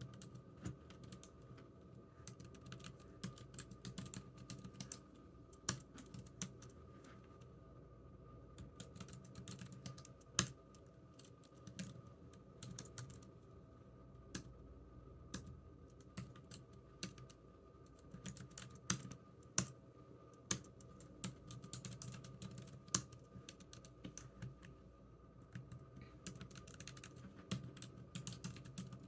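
Typing on a computer keyboard: irregular runs of key clicks with occasional louder strokes, over a faint steady hum.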